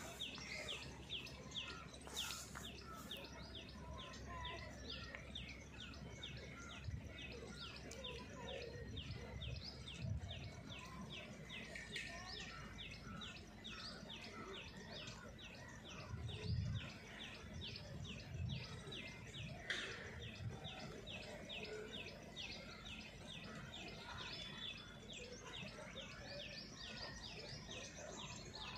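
A bird chirping rapidly and repeatedly, several short high notes a second in an even series, over faint outdoor background noise, with a few low thuds, the loudest a little past halfway.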